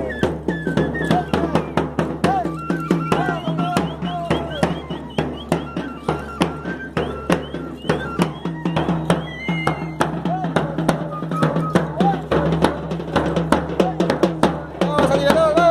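Traditional drum music: a drum beating a fast, steady rhythm at about four strokes a second under a high piping melody of held, stepping notes, with voices calling over it.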